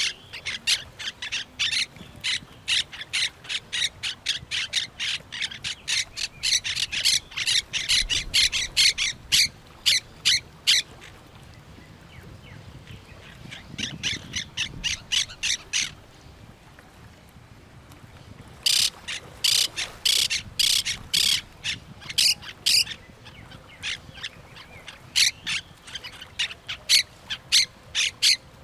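Parrots squawking, harsh calls repeated about four a second in several bouts with short pauses between them.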